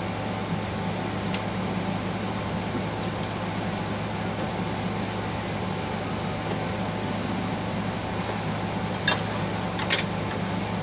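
Steady mechanical hum with no rhythm, with two sharp clicks near the end.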